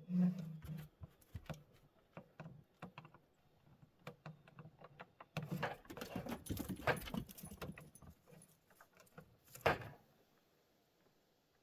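Jangling and clicking of small metal objects being handled, busiest in the second half and stopping with a last sharp click about ten seconds in.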